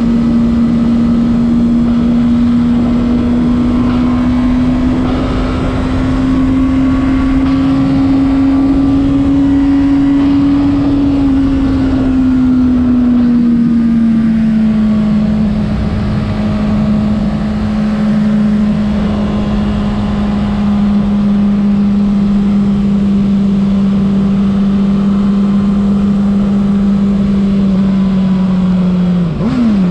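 2026 Honda CBR600RR's inline-four engine running at high revs at a steady pace, over wind rush. The note climbs slightly, eases down about halfway and holds, then briefly drops and jumps back up right at the end, as at a gear change.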